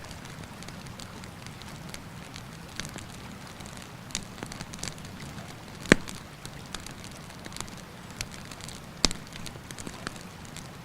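Wood campfire crackling with scattered sharp snaps, and two loud pops about six and nine seconds in, over the steady rush of a mountain river.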